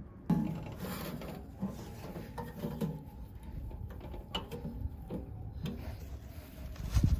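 Parts of a wood-burning stove being handled: irregular rubbing and scraping with light clicks, and a heavier low thump near the end as something is set down.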